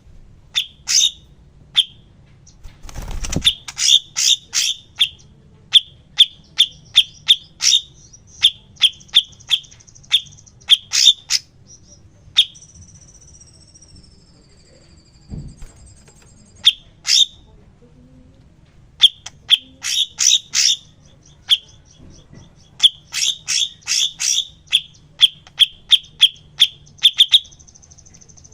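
Songbird calling in quick runs of short, sharp chip notes, with thin, high trilled notes between the runs and one falling whistle near the middle. A low thump sounds about three seconds in.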